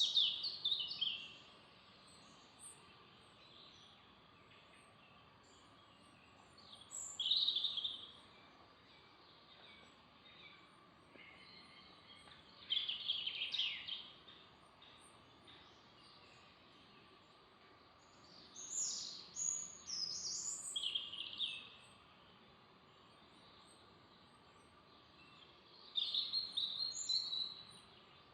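A songbird singing short phrases, five in all, about six seconds apart, over a faint steady background hiss.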